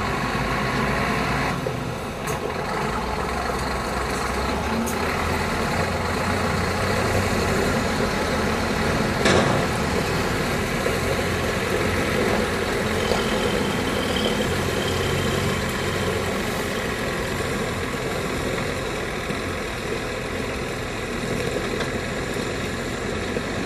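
Scania R124 420 tipper truck's 12-litre inline-six diesel running steadily at low revs, with one sharp knock about nine seconds in.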